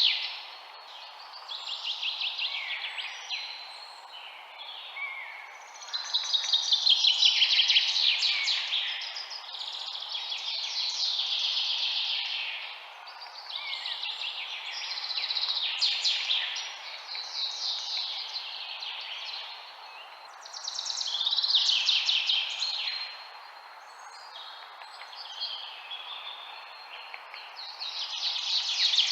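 Several songbirds singing in overlapping phrases of a second or two, many of them rapid high trills, one after another with short gaps. Under them runs a steady low hiss of background noise.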